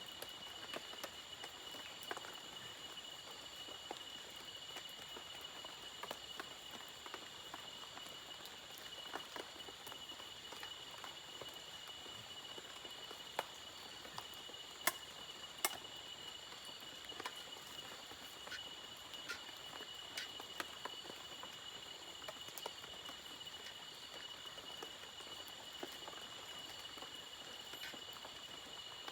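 Steady insect chorus with several high continuous tones, over faint even background noise, broken by scattered light clicks and taps, the sharpest few about halfway through.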